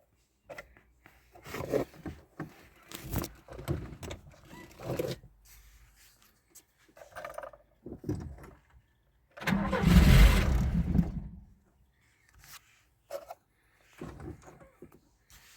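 Scattered clicks and handling noises, then, about halfway through, a loud two-second burst of a VAZ-2106 engine being cranked on the starter.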